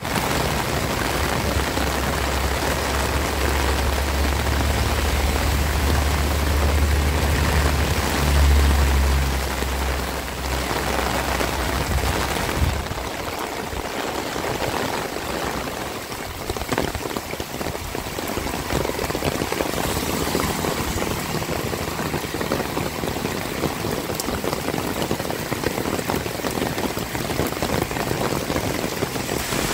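Heavy rain pouring steadily onto surfaces. For roughly the first twelve seconds a deep low rumble sits under the rain, then cuts off suddenly.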